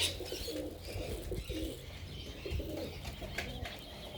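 Pigeons cooing over and over, with fainter high chirping from other birds and a few low thumps.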